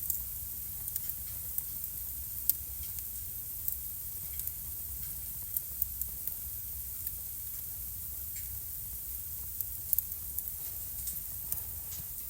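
Wood fire crackling in a home fireplace: sharp pops and snaps at irregular intervals over a steady soft hiss.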